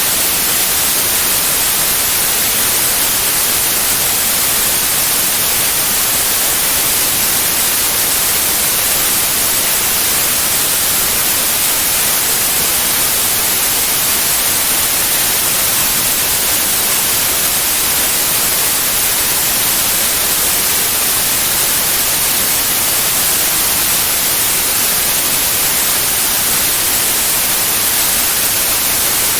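Steady, unchanging white noise: an even hiss strongest in the high frequencies, with no breaks or events.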